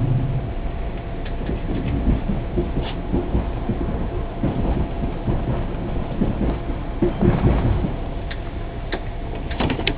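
A train running on the rails: a steady low rumble with scattered sharp clicks, most of them near the end, and a louder stretch about seven seconds in.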